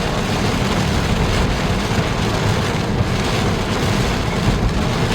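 Steady noise inside a moving vehicle: a low rumble from the engine and tyres with an even hiss over it, like tyres on wet pavement or rain.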